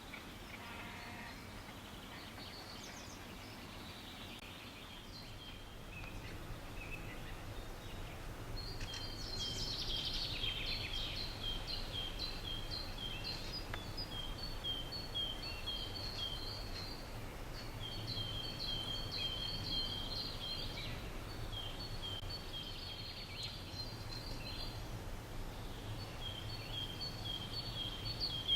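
A small songbird singing runs of quick two-note phrases, a higher and a lower note alternating, repeated with short pauses between runs, starting a few seconds in. A steady low background rumble lies under it.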